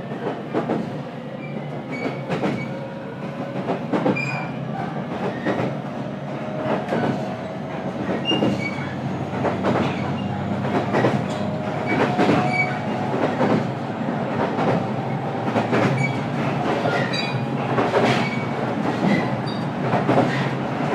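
Inside the motor car of a JR Kyushu 817 series electric train running at speed: a steady rumble with wheels clacking over rail joints at uneven intervals, and a faint tone that rises slowly through the middle.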